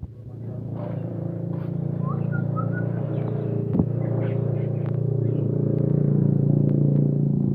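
A motor vehicle's engine running and gradually growing louder, with a few short chirps about two seconds in.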